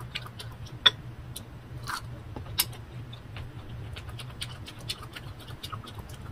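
Close-up eating sounds of crunchy unripe green mango being bitten and chewed, with scattered sharp clicks and mouth smacks, the loudest about a second in. A steady low hum lies underneath.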